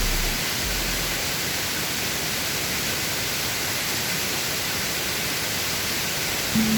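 Steady rushing of a waterfall in heavy flow, an even unbroken roar of water. A bass note fades out in the first second, and a held low musical tone comes in near the end.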